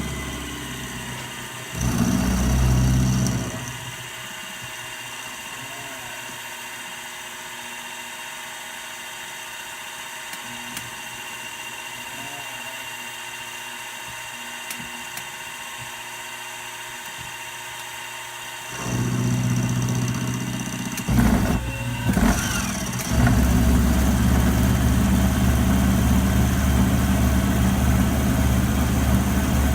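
A machine tool's motor running briefly, stopping for about fifteen seconds of quieter steady hum, then starting again. A few sharp knocks come about twenty-one seconds in, and then the machine runs steadily.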